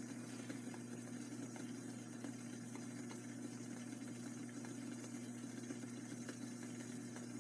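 Steady low mechanical hum of kitchen equipment, with a few faint ticks.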